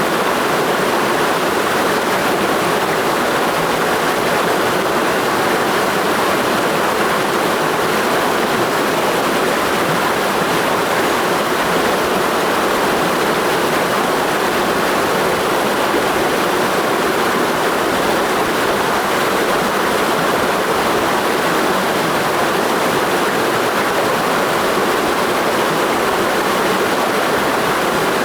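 A clear mountain river rushing over rocks in a gorge: a steady, unbroken flow of water.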